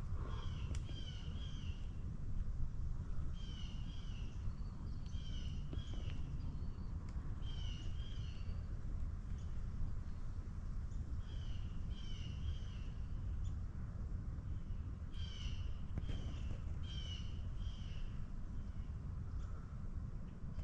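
Birds calling in short phrases of two or three quick notes, repeated every second or two with a few pauses, over a steady low rumble.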